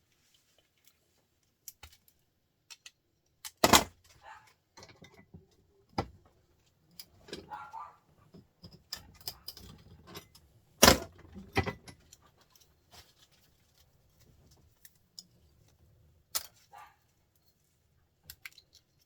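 Metal parts of small printer motors clinking and knocking as they are handled and taken apart, with scattered sharp clicks and two loud knocks, about four and eleven seconds in.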